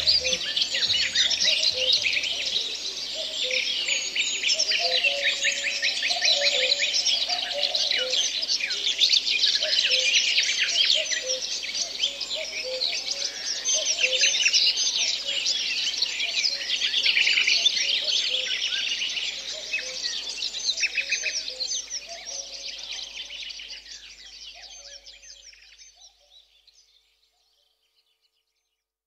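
Dense chorus of forest songbirds, many overlapping rapid chirps and trills, fading out gradually near the end.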